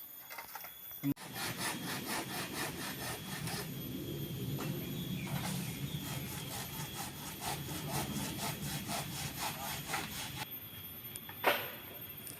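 Wood being sawn in a quick, even rhythm of about four to five strokes a second, which stops about ten and a half seconds in. A single sharp knock follows about a second later.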